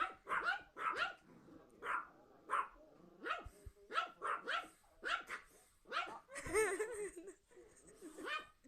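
A dog barking over and over in short sharp barks, about two a second, with one longer drawn-out bark about two-thirds of the way through.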